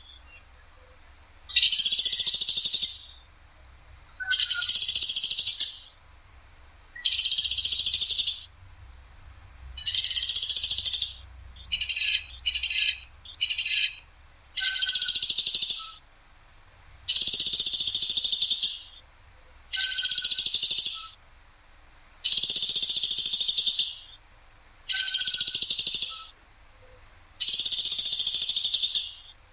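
Woodpecker (the bird called platuk sampit) giving loud, sharp, rasping rattle calls, each just over a second long, repeated about every two and a half seconds, with three short quick calls in a row near the middle.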